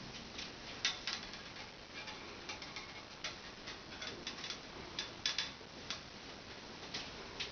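A cat's claws and paws clicking and tapping on the rungs of wall bars as it climbs, in irregular light clicks a few per second.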